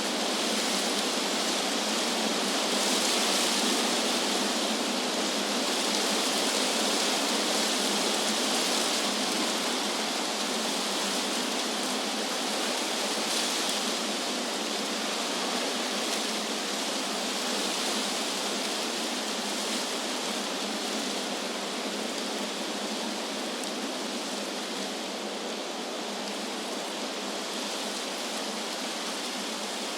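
Wind blowing through trees, a steady rustling hiss of leaves that swells gently a few seconds in and eases slightly toward the end.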